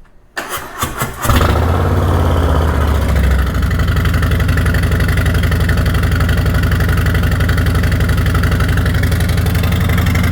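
Harley-Davidson Street Bob's V-twin cold-started through a catless Two Brothers 2-into-1 exhaust. The starter cranks briefly and the engine catches about a second in, then runs at a loud, steady, pulsing idle that settles slightly a few seconds later.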